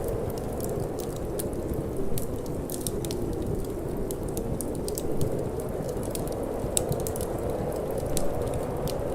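Wood fire crackling in a fireplace, with frequent small sharp pops and a few louder ones, over a steady low rushing of cold wind.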